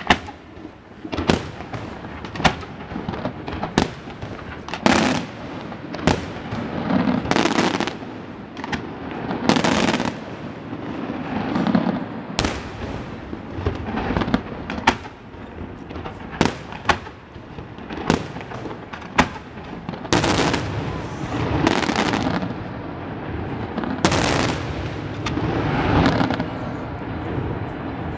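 Aerial firework shells bursting in quick, irregular succession: sharp bangs every second or two, mixed with longer hissing, rumbling bursts.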